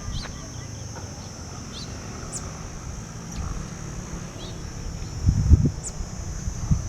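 Forest birds giving short, scattered chirps over a steady high drone, with low rumbling thumps starting about five seconds in.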